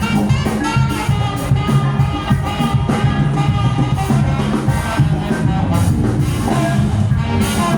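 Live band music with a steady beat, a bass line and melodic parts over it.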